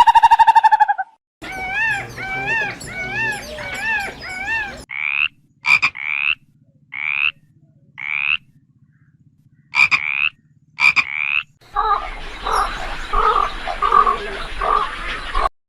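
Animal calls from several recordings heard one after another. First a steady pitched call ends. Next a repeating warbled call runs for a few seconds, then short rising chirps come about once a second with pauses, and near the end there is a pulsing croaking chorus.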